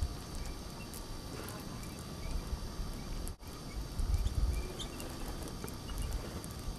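Low, uneven wind rumble on the microphone during a snowstorm, with a few faint, short bird calls.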